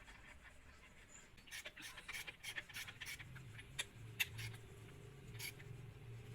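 Scattered light clicks and taps, irregular and spaced out. A faint low steady hum comes in about three seconds in.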